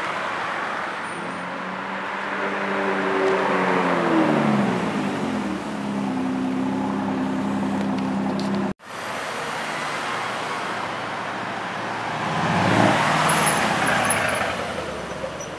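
A sports car engine's note falls in pitch and settles to a steady idle, then cuts off abruptly. Next a car engine rises and fades as a car pulls away, the loudest moment coming about 13 seconds in.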